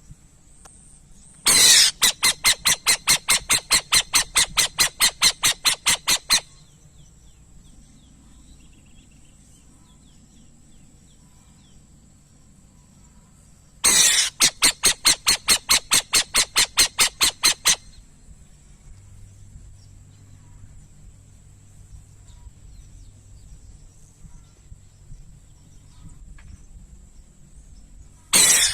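Burrowing owl calling in rapid bursts of sharp, evenly spaced notes, about five or six a second. Two bouts of about four to five seconds are separated by a long pause, and a third begins near the end.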